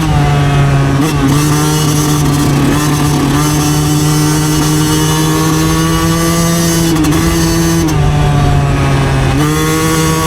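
Yamaha YZ125 two-stroke single-cylinder dirt bike engine running under way. Its note drops right at the start, holds lower and wavers for most of the time, then climbs back up near the end.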